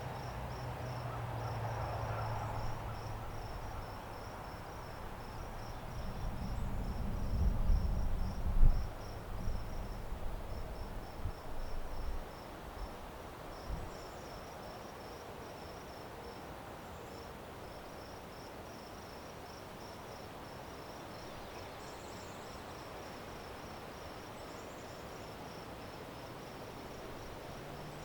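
Insects trilling in a steady, rapid pulsing chorus. Under them a low rumble runs through the first few seconds, swells to its loudest about eight seconds in, and dies away by about twelve seconds.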